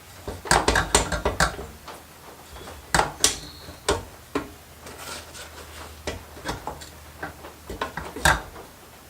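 Metal tools and mini-bike parts being handled: a string of irregular sharp clinks and knocks, with a louder knock about three seconds in and another near the end.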